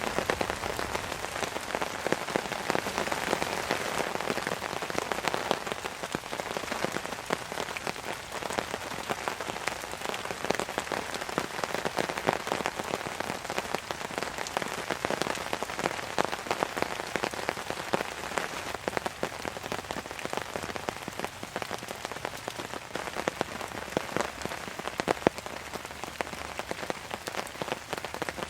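Heavy rain falling on a tarp overhead: a steady, dense patter of drops, with a few louder single drop hits near the end.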